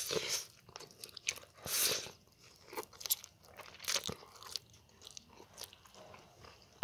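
Person chewing a mouthful of stir-fried instant noodles, with a few short noisy mouth sounds and sharp clicks of metal chopsticks against the plate.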